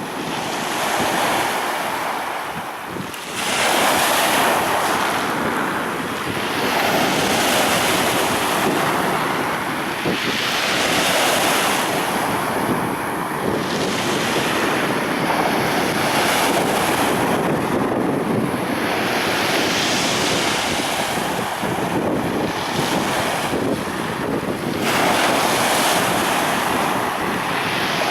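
Black Sea waves breaking on the shore, a new wave surging in every three to four seconds.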